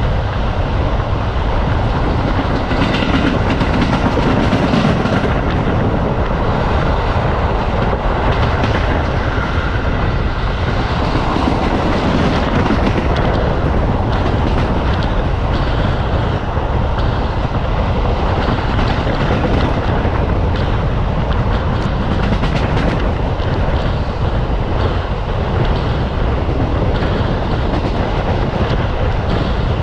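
Passenger train running steadily, heard from a carriage window: a continuous rumble of the wheels on the track with a stream of clickety-clack knocks as the wheels pass over rail joints.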